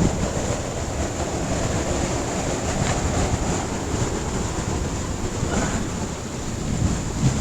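Wind rushing over the microphone while riding a bike: a steady, even noise with a low rumble.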